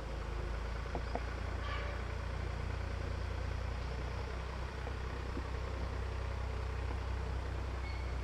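An engine idling steadily, a low rumble, with a couple of faint clicks about a second in.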